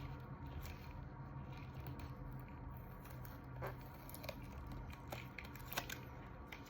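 Faint rustling and a few light ticks from handling a transparent IV dressing and its backing, over a low steady hum.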